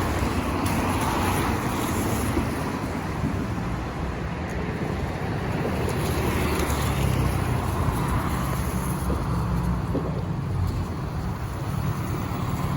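Road traffic noise: a steady rumble of vehicle engines and tyres on the street.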